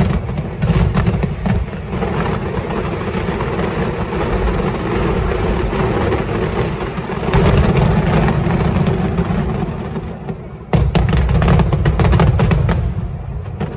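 Fireworks finale barrage: dense, rapid, overlapping bangs and crackles. It slackens briefly about ten seconds in, returns in a last sharp volley, then dies away near the end.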